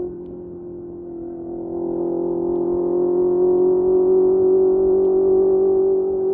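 Honda CBR650R inline-four engine through a Mivv MK3 exhaust, holding a steady pitch. The level drops at the start, builds back up about two seconds in, and then holds.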